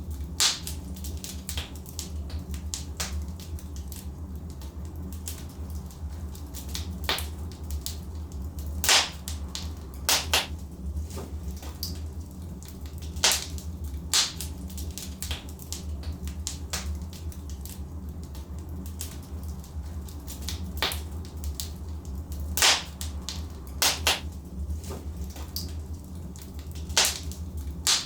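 Logs burning in a fireplace: sharp, irregular crackles and pops a second to several seconds apart over a steady low rumble.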